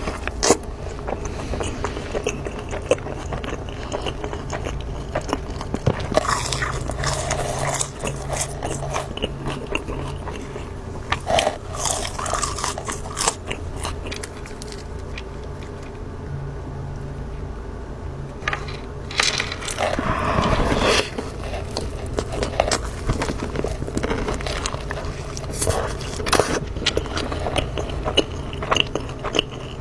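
Close-miked eating sounds: bites and crunchy chewing, with irregular crunches and crackles throughout and a denser burst of crunching about two-thirds of the way through.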